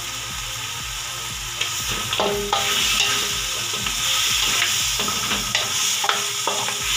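Beef ribs, onion and garlic frying with tomato sauce in a hot metal wok, sizzling steadily, while a wooden spatula stirs them with scrapes and a few knocks against the pan. The sizzling grows louder about two and a half seconds in, when the stirring starts.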